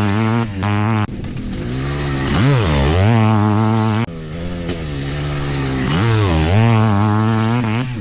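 Yamaha YZM500 two-stroke single-cylinder motocross engine ridden hard, its revs rising and falling as the throttle is worked. The engine note cuts off abruptly about a second in and again about four seconds in, then builds back up.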